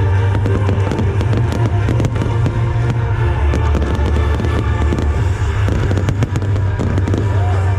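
Aerial fireworks bursting and crackling in rapid succession over loud show music with a heavy bass.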